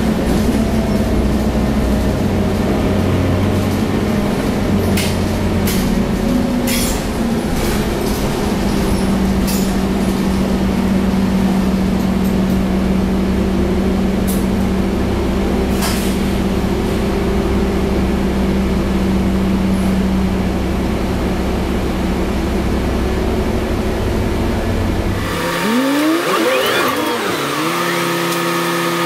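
Scania bus running with steady engine and road noise and a few sharp clicks. About 25 seconds in the low rumble cuts off suddenly, giving way to the bus engine idling, with a brief whine that glides up and down.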